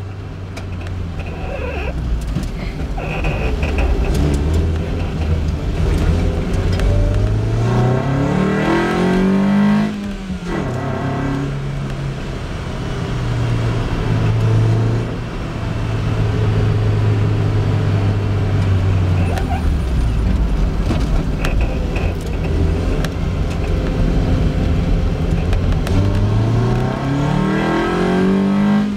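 Lotus Elise's four-cylinder engine heard from inside the car, pulling hard uphill. Its pitch climbs twice, about a third of the way in and again near the end, and each climb cuts off sharply at a gear change; in between it holds a steady note.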